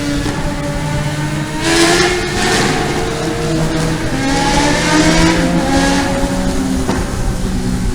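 Vehicle engine pulling up a mountain road: its pitch rises slowly over several seconds from about two seconds in, with rushing noise over the engine.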